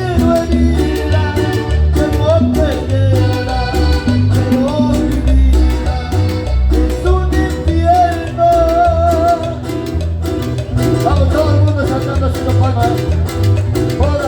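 A live band playing Latin dance music: a wavering melody line over a steady bass beat.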